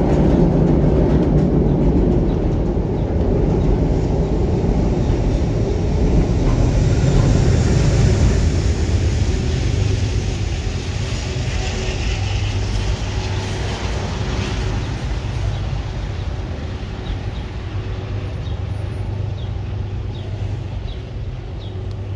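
Train passing on the elevated tracks overhead: a loud, steady rumble of wheels on rails with some higher hiss partway through, slowly fading over the second half.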